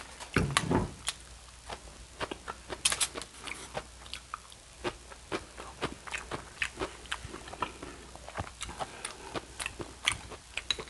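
Close-miked chewing of a gyro: a steady run of short mouth clicks and crunches as the food is chewed, with a louder bite or handling noise about half a second in.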